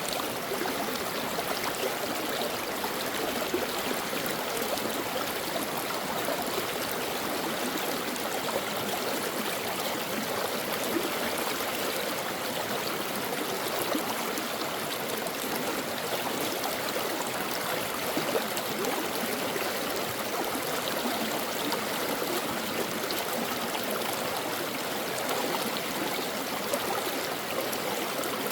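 A stream of water running steadily over rocks, with a continuous rushing and small gurgles.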